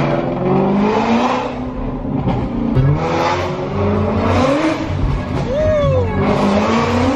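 Whipple-supercharged Shelby GT350R's 5.2-litre flat-plane-crank V8 accelerating hard through a Borla ATAK exhaust, heard from inside the cabin. The pitch climbs about three times and drops between the climbs as it pulls through the gears.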